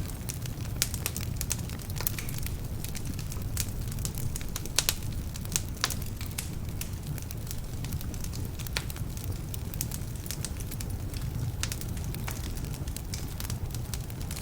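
Wood fire burning in a fireplace: a steady low rumble of flames with irregular sharp crackles and pops, thickest in the first half, from logs that are partly damp.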